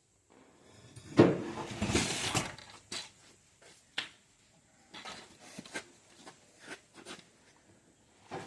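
A sudden clatter of hard objects being handled, about a second and a half long, followed by a few sharp clicks and scattered light knocks.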